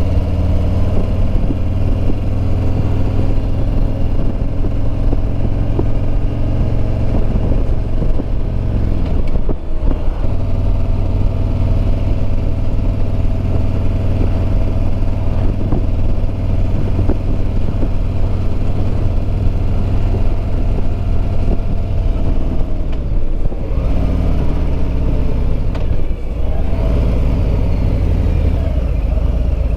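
Harley-Davidson Road Glide Limited's Milwaukee-Eight V-twin engine running steadily under way, with wind noise. The engine note breaks briefly about ten seconds in, and drops then climbs again in the last third.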